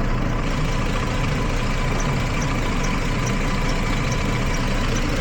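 Jeep Liberty V6 idling, running rough with a misfire on cylinders 1 and 5. A faint high tick repeats about twice a second over the engine.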